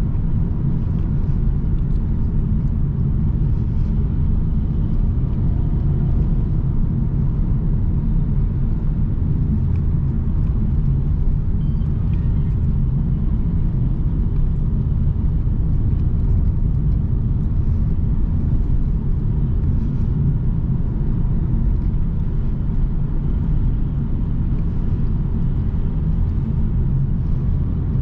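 A car driving at a steady pace, its engine and tyre noise making a continuous low rumble.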